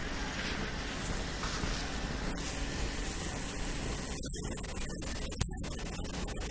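Steady rushing noise of blizzard wind on the camera microphone, with short dropouts in the second half and one brief click about five and a half seconds in.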